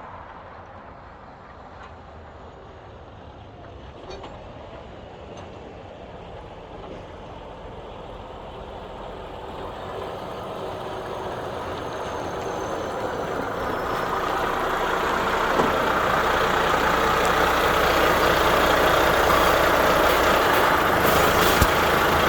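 Container truck running, its engine and road noise growing steadily louder over about eight seconds in the middle, then holding steady.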